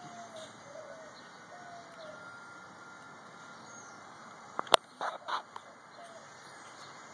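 Small plastic toy pieces being handled and fitted together: one sharp click about two-thirds of the way through, then a short cluster of smaller clicks and rustles. Faint bird calls come and go in the background.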